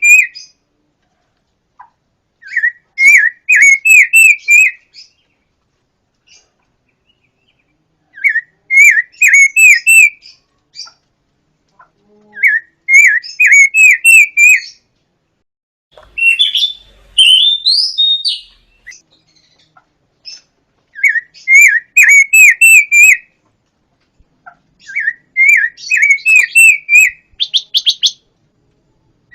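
Pancawarna bird singing: repeated two-second phrases of quick, hooked whistled notes with pauses of a few seconds between them. About halfway through there is a higher, rising squeaky call, and a quick buzzy run comes near the end.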